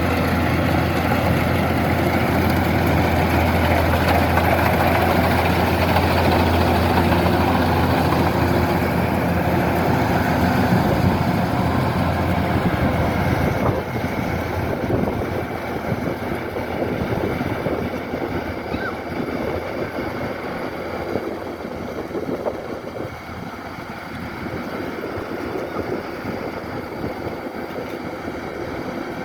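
Kubota DC-105X combine harvester running, a steady diesel engine drone with a strong low hum and the noise of its working machinery. About halfway through it gets quieter and less even.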